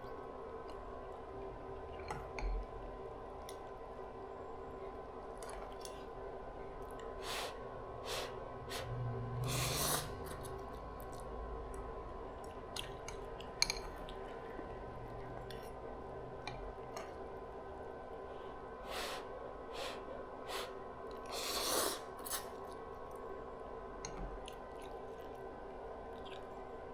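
Someone eating a bowl of instant noodles: chewing and mouth sounds with scattered light clicks, and two longer noisy slurps, about ten seconds in and again near the end, over a steady faint hum.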